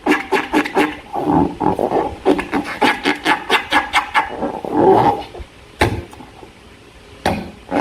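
Slime being squeezed and kneaded by hand: wet squelching with a quick run of crackling pops, easing off after about four seconds to softer squishing with an occasional sharp click.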